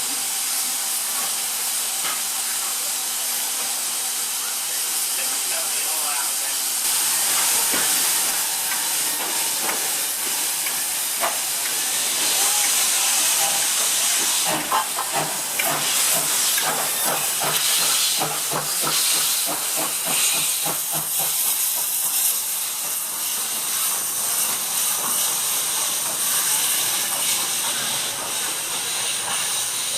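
Steam locomotive hissing steadily as it lets off steam. About halfway through, a run of quick, irregular knocks comes in for several seconds.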